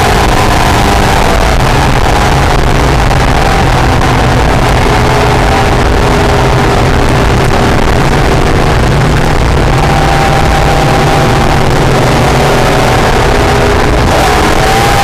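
Acura NSX's V6 engine running hard on track, loud and unbroken, its note falling and rising with the throttle and climbing again near the end.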